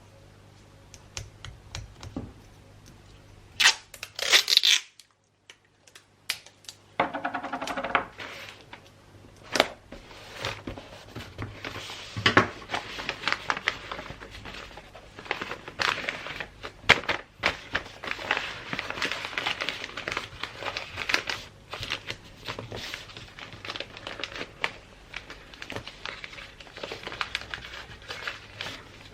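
Gift-wrapping paper being handled and folded: crinkling and rustling with sharp little taps and clicks. There is a brief near-silent pause about five seconds in, and denser crinkling from about ten seconds on.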